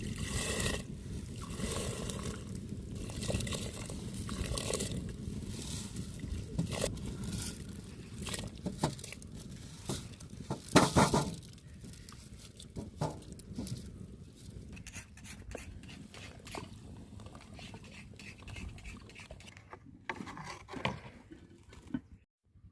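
Irregular knocks, scrapes and clatter of hands-on work, with one loud sharp knock about eleven seconds in.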